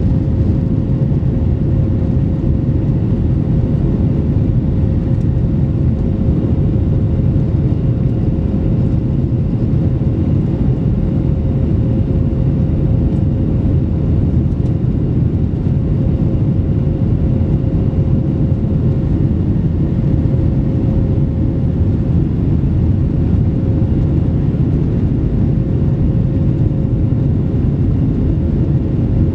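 Boeing 737-700's CFM56-7B jet engines and airflow heard inside the passenger cabin: a loud, steady, deep roar with a steady hum-like tone running through it.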